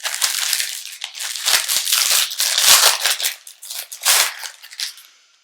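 Crinkly biscuit packet being handled and opened: dense crackling with scattered clicks that fades out near the end.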